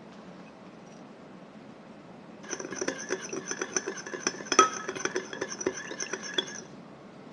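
A kitchen utensil clinking rapidly against a ringing dish, as in stirring or mixing, for about four seconds, with one louder clink about halfway through.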